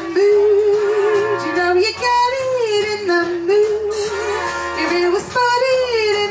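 A woman singing into a microphone over instrumental accompaniment, with long held notes that waver in pitch and slide between phrases.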